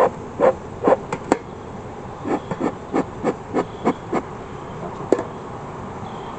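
Bellows of a beekeeping smoker being pumped, short puffs about two and a half a second in two runs, with a sharp click or two between them.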